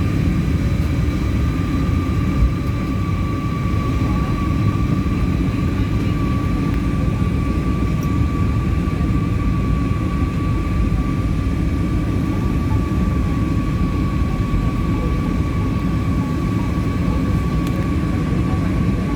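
Steady engine noise of a jet airliner heard from inside the cabin: a deep rumble with a constant high whine on top.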